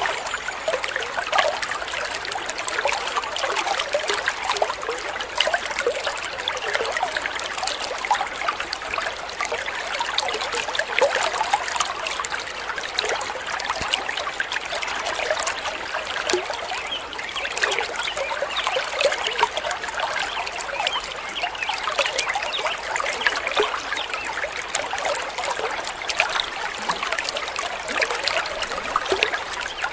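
A small stream of water trickling steadily.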